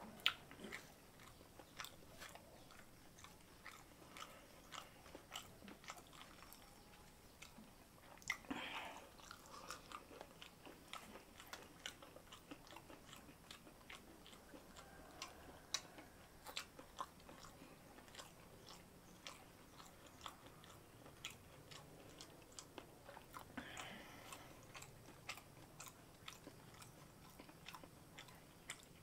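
Close-up mouth sounds of a person eating rice and semur jengkol (jengkol beans stewed in sweet soy sauce): soft chewing with wet lip-smacking clicks, irregular throughout. Two short louder noises stand out, about 8 seconds in and near the end.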